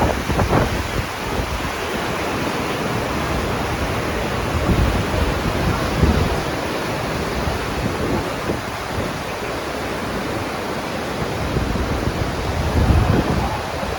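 Wind blowing across the microphone on the open deck of a moving cruise ship: a steady rushing noise with stronger low gusts about six seconds in and near the end.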